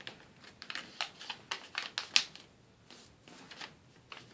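A sheet of plain white paper being folded and creased by hand: irregular short crackles and rustles, the sharpest about two seconds in.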